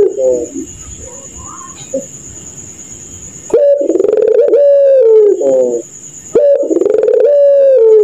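Puter pelung dove giving long, drawn-out cooing calls, with wavering notes that step down in pitch like a laugh. One call trails off in the first half second, then after a pause of about three seconds a long loud call starts, breaks briefly near the six-second mark, and resumes.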